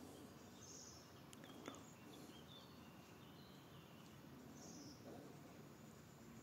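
Faint birds chirping now and then over quiet outdoor background hiss, with a single soft click about one and a half seconds in.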